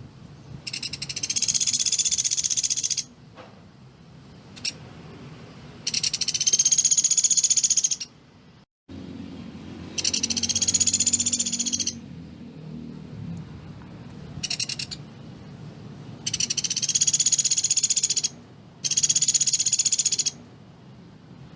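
Pelatuk beras woodpecker singing loud, fast rattling trills, each about two seconds long and repeated every few seconds, with one shorter burst in the middle. This is the tight rapid-fire 'tembakan' song prized for tutoring other songbirds.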